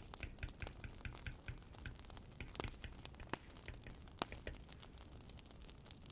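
Wood fire crackling, with irregular small pops and snaps over a low rumble of the flames.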